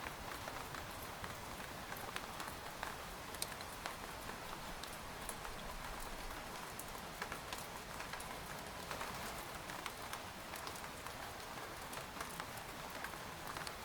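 Steady rain pattering on a tent, with many separate drops tapping irregularly over a constant rushing hiss.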